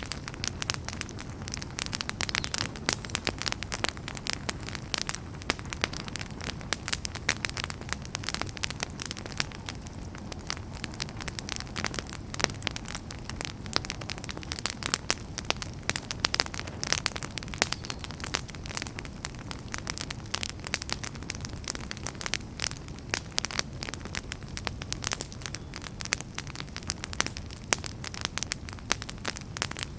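Wood fire burning with dense, irregular crackles and pops over a steady low roar of the flames.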